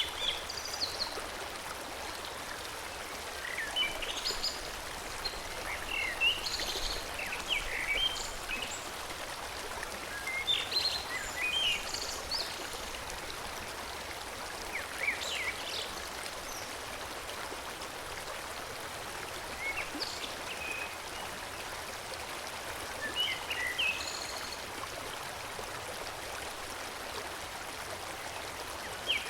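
Forest stream flowing steadily, with birds singing in short bursts of high chirps every few seconds.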